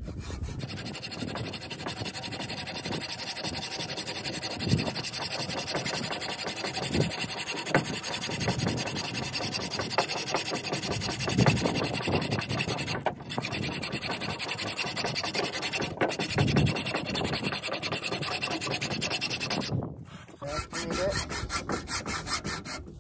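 A saw blade cutting metal in steady rasping strokes, stopping briefly about twenty seconds in and starting again.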